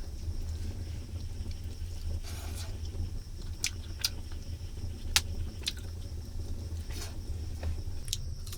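About six sharp crackles or pops, scattered irregularly through the second half, over a steady low rumble and a thin steady high tone.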